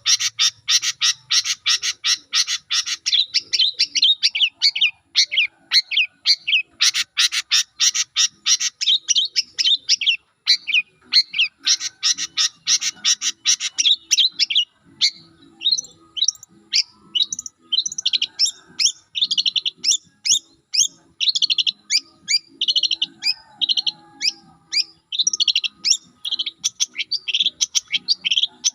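Long-tailed shrike (cendet) song: dense, very fast chattering runs of high notes, which break up about halfway into separate sharp notes and short phrases.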